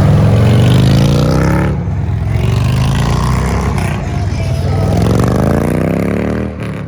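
V8 car engine accelerating hard away from the meet: its pitch rises, drops at a gear change about two seconds in, then climbs again through a second long pull before fading near the end.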